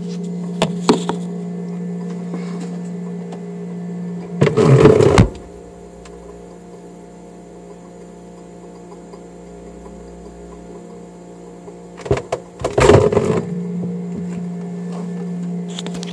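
Steady low hum of a 1984 Excellence mini fridge with its compressor running. The fridge door shuts with a loud clunk about five seconds in, muffling the hum, and opens again with another clunk around twelve to thirteen seconds.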